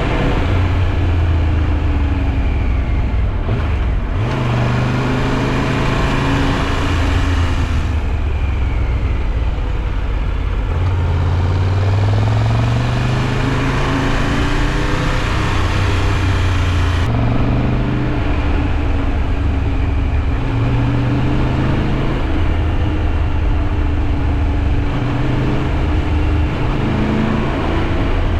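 Triumph Tiger 1200 Rally Pro's three-cylinder engine running while the motorcycle is ridden, its note climbing and dropping several times with sudden steps in pitch, over a steady rushing noise.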